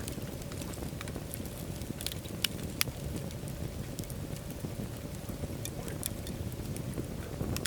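Wood fire burning in a fireplace: irregular sharp crackles and pops over a low steady rumble of flames, with two louder pops close together about two and a half seconds in.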